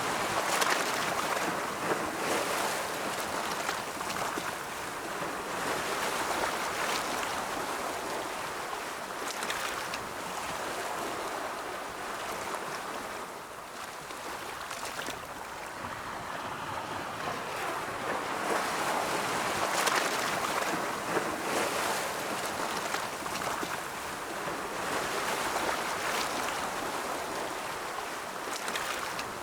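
Ocean waves breaking and washing on a shore, a continuous surf that swells and ebbs every few seconds, with brief splashes of spray at the wave crests.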